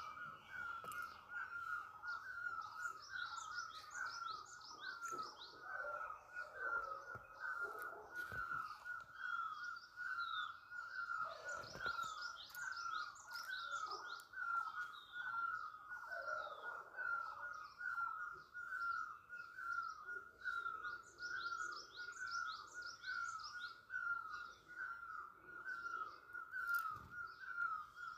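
Birds calling outdoors: one mid-pitched note repeats steadily, roughly once every 0.7 seconds, while bursts of quick, high chirping trills come in three times.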